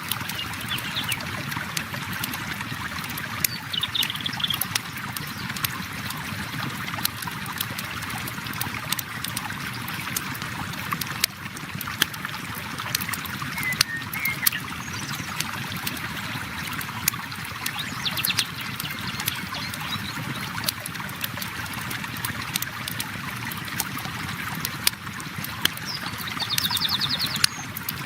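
Flowing river water with a campfire crackling over it in frequent sharp pops and snaps. A few brief bird chirps come through now and then, the clearest near the end.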